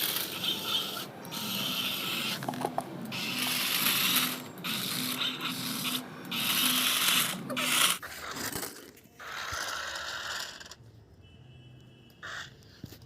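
Toy remote-control robot car being handled, giving irregular ratcheting, scraping mechanical noise in bursts for about eight seconds, then going much quieter.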